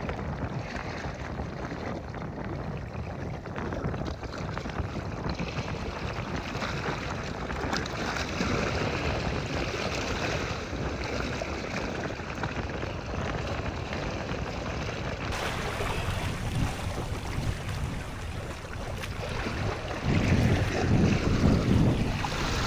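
Wind buffeting the microphone over the sound of sea waves, a steady rushing noise that swells louder near the end.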